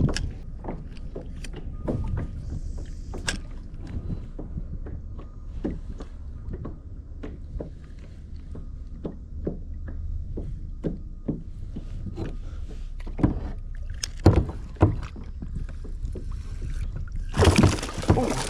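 Fishing from a kayak: a steady run of small sharp clicks and knocks, two to three a second, over a low rumble of wind and water against the hull. A louder burst of splashing near the end comes just as a largemouth bass is hooked and brought in.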